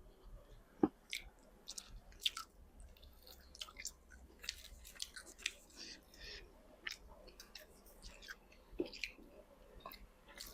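A person chewing close to the microphone while eating boiled egg-bearing frogs: quiet, irregular wet mouth clicks and smacks.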